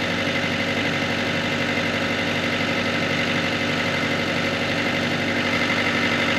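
Engine idling steadily at an even, unchanging speed.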